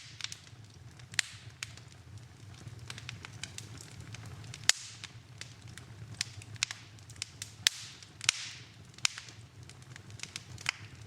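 Wood fire in a fireplace crackling: sharp, irregular pops and snaps, the loudest near the middle, with a couple of brief hissing swells, over a low steady rumble.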